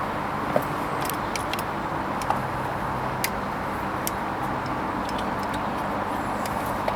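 Hoover Vision HVP16 washing machine running its Silks 30 programme: a steady hum and whoosh, with scattered light clicks and ticks.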